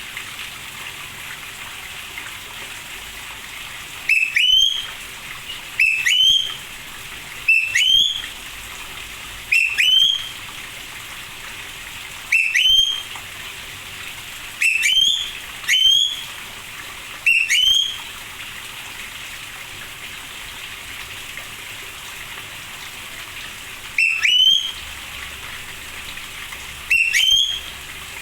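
A bird gives a short upward-sliding whistled call about ten times, one to two seconds apart with a longer pause in the middle, over the steady hiss of rain.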